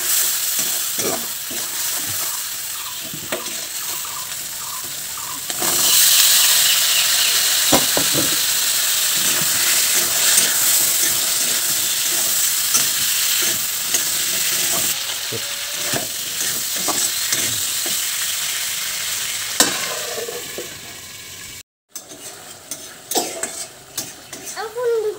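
Masala and cut red amaranth stems sizzling in a hot steel kadai, with a metal spatula stirring and scraping against the pan. The sizzle jumps louder about five and a half seconds in. After a brief break near the end it is quieter, with a few clicks of the spatula.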